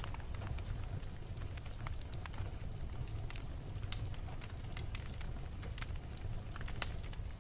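Wood fire burning in a fireplace: irregular sharp crackles and pops over a steady low rumble of the flames, with one louder pop near the end.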